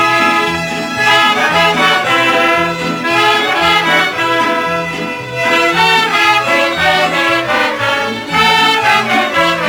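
Mariachi band playing an instrumental introduction: melody notes over a bass line that steps back and forth in an even rhythm.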